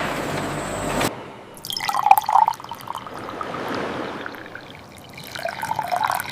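Coconut water splashing and dripping in two bursts, about two seconds in and again near the end, after a steady machine hum that cuts off about a second in.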